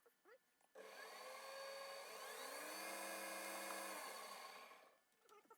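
Small metal lathe running while drilling into the hub: a faint motor whine starts about a second in, rises in pitch, holds steady, then falls away and stops near the end.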